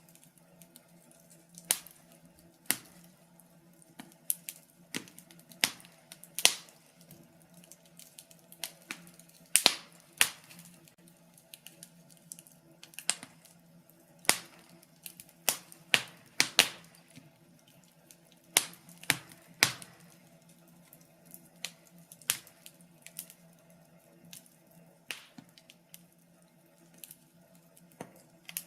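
Burning firewood crackling: irregular sharp pops and snaps, some louder than others, over a faint steady low hum.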